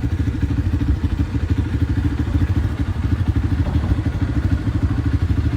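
Dirt bike engine running steadily at a constant speed, a low, evenly pulsing note.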